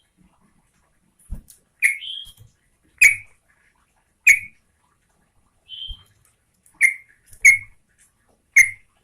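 Yellow-vented bulbul (trucukan) calling: a series of short, sharp notes about once a second, with softer, slightly rising whistled notes between them. Two faint low thuds can be heard along with the calls.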